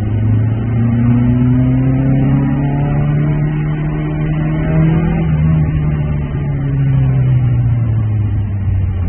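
Opel Manta GTE's four-cylinder engine heard from inside the cabin, pulling steadily up through the revs for about five seconds, then revs falling gradually as the driver eases off.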